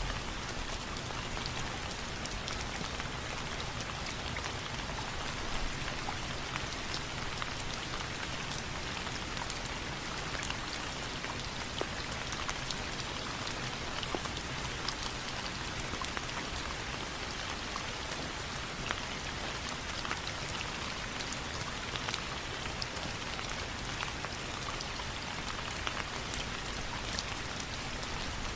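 Steady rain falling, an even hiss dotted with many small sharp ticks and crackles throughout.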